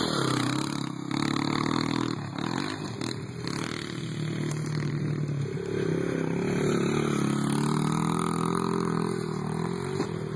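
Motorcycle engine running, its pitch rising and falling with the throttle in the first half, then holding steadier.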